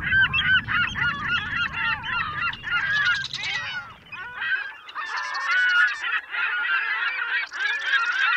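A crowd of seagulls calling over one another, with many short, harsh calls that rise and fall in pitch. A low rumble underneath stops about four and a half seconds in.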